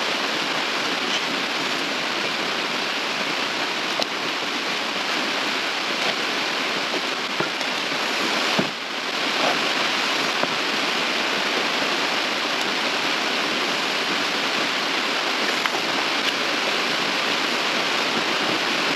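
Steady hiss of rain. A few faint clicks and a soft knock about eight and a half seconds in come from plastic heater-box parts being handled.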